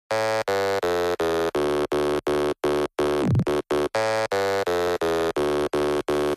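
Electronic music intro: a buzzy synthesizer note pulsing about three times a second, with a falling sweep about halfway through.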